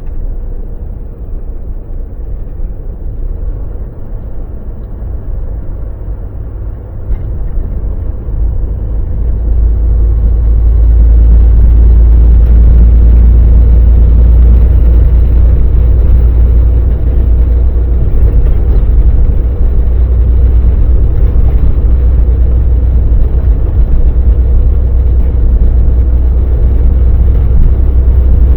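Volvo VNL semi truck on the road: a steady low engine and road drone that swells over a few seconds about ten seconds in, then stays loud.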